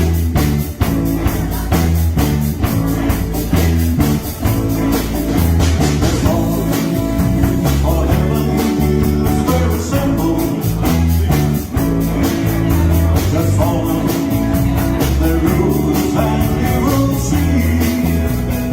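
Live rock and roll band music with guitar over bass and a steady drum beat, mostly without sung words.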